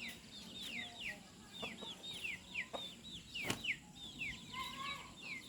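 A group of small birds cheeping: a dense run of short, falling chirps, several a second and overlapping, with a single sharp click about three and a half seconds in.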